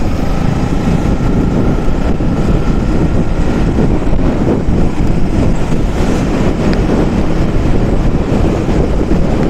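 Wind rushing and buffeting over the microphone on a moving KTM Duke 200 motorcycle, with the bike's running and road noise underneath.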